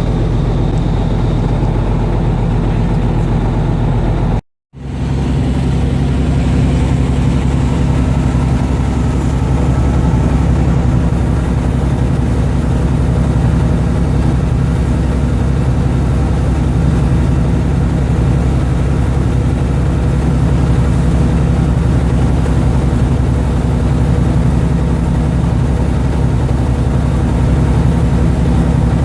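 Fishing boat's engine running steadily with a low, even hum, heard on board; the sound drops out for a moment about four and a half seconds in, then resumes unchanged.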